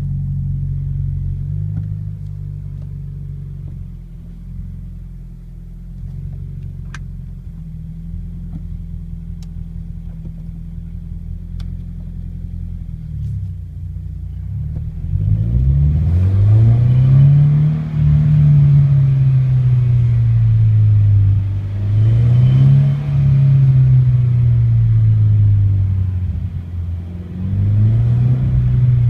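Subaru BRZ's flat-four engine running low and steady, then accelerating hard from about halfway, its pitch rising and dropping back several times through the gears. A metallic rattle comes in as it revs past about 3,000 rpm, which happens every time the car is first started.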